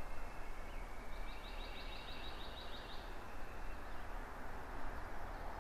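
Quiet woodland ambience, a steady hiss of background noise. A songbird sings a quick trill of about a dozen notes from about one to three seconds in, over a thin, steady high tone.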